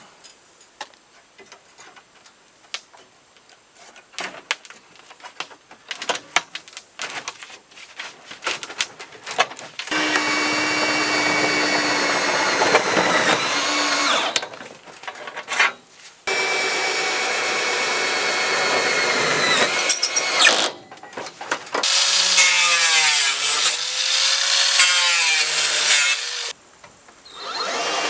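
Scattered clicks and knocks of parts being handled, then a power tool running in three loud bursts of a few seconds each. In the last burst the pitch wavers up and down.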